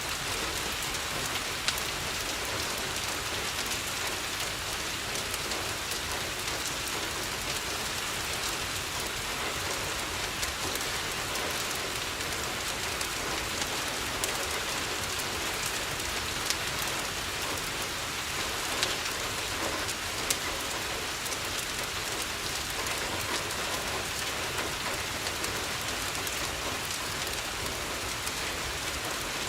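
Steady rain falling on a window, an even hiss with a few sharp ticks now and then.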